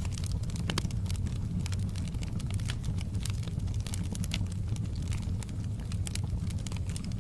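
Wood fire burning in a fireplace: a steady low rumble of flame with frequent irregular crackles and pops of burning logs.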